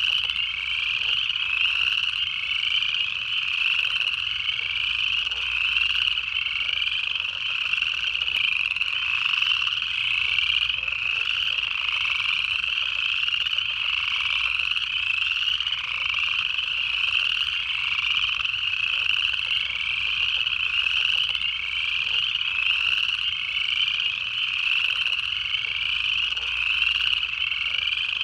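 Dense pond chorus of upland chorus frogs: many short, ascending trills overlapping and repeating without a break.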